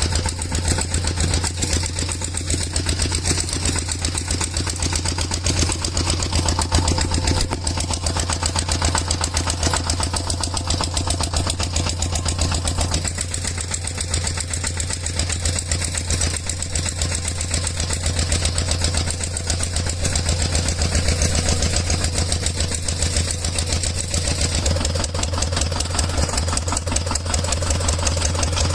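Tractor-style engine running steadily with a fast, even chug and no change in speed.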